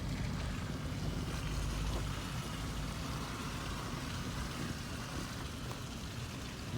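Steady road noise heard from inside a vehicle: the engine and tyres running on a snowy road, with a low rumble underneath.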